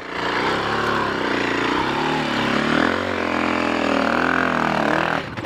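Dual-sport dirt bike engine revving up and down under load on a steep, rocky climb, then cutting off suddenly near the end.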